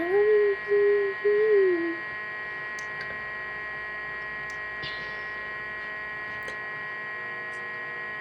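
Steady hum of an egg incubator running, with a person humming three short notes in the first two seconds. A few faint, short, high peeps from the hatching chick.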